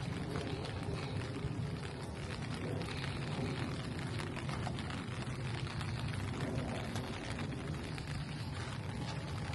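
Steady rain falling, with many small drop ticks over a low, steady rumble.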